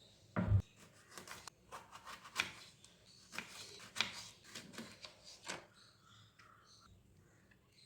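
Kitchen handling sounds during food preparation: a dull thump about half a second in, then a run of irregular light clicks and scrapes for about five seconds, fading out near the end.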